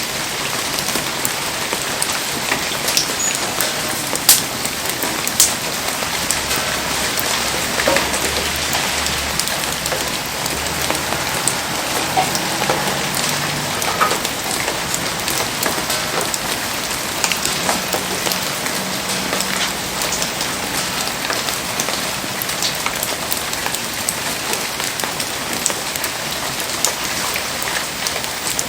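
Heavy rain falling steadily: a dense, even hiss speckled with sharp ticks and pops, the loudest pop a little after four seconds in.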